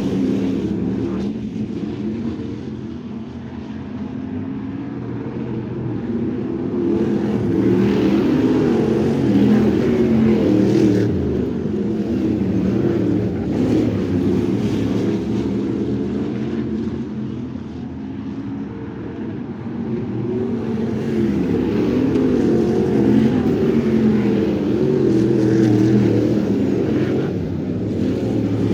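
Crate sprint car engine running at racing speed, its pitch rising and falling constantly with the throttle. The overall loudness swells and fades slowly, about every twelve to fourteen seconds.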